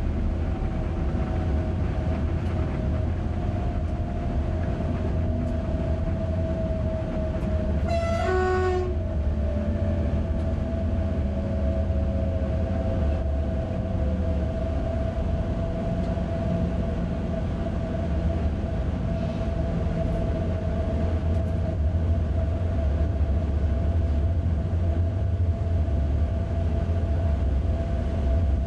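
Electric passenger train running on the track with a steady low rumble and a steady whine. About eight seconds in the train horn sounds once, under a second long, as two notes: a higher note, then a lower one.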